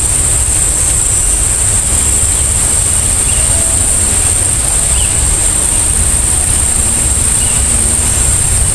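Steady outdoor noise with a heavy low rumble like wind buffeting the microphone, under a constant high hiss, with a few faint short chirps.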